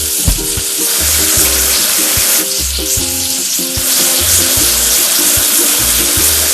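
Steady spraying hiss of a cartoon water-spray washing sound effect, over background music with a bouncy melody and bass beat.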